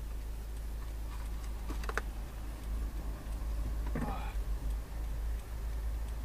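Steady low rumble of a car's engine and road noise, with a couple of sharp clicks about two seconds in and a brief voice-like sound about four seconds in.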